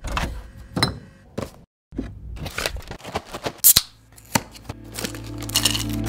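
A string of short, sharp clicks, snips and knocks, the sounds of packaging material being cut and handled, broken by a moment of dead silence just before two seconds in. Over the last second or so, music with a low held chord swells in beneath them.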